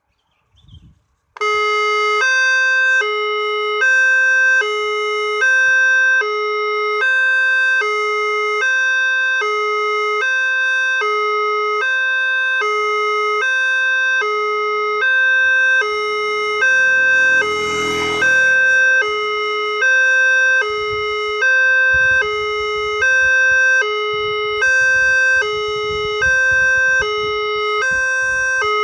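Railway level-crossing warning siren from a horn loudspeaker starting up a second or so in and sounding a steady two-tone hi-lo alarm, switching notes about every 0.8 s: the crossing has been triggered by an approaching train and the barrier is closing. A brief swell of noise passes near the middle, and a low rumble comes in toward the end.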